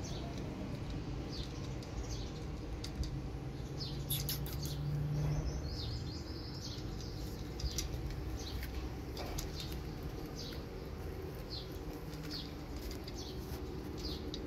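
Small birds chirping in short, high chirps, one or two at a time, over a steady low hum.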